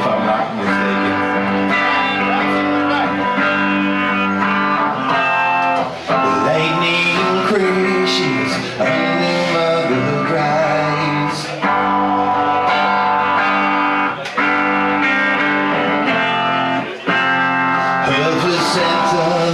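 Live rock band playing a slow song's instrumental intro: guitar chords ring out and change every two seconds or so.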